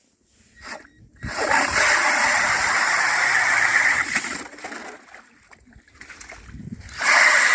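Wet slush and water splashing and sloshing as snow is dug out on lake ice, in two long stretches: one starting about a second in, another near the end. The water is overflow that has welled up under the snow on the ice.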